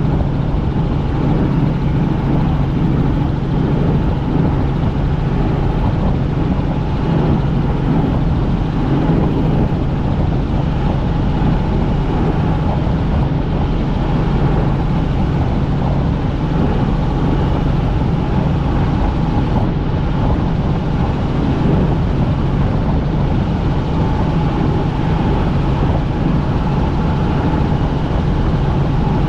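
Helicopter in flight, heard inside the cabin: steady, loud engine and rotor noise with a constant low hum.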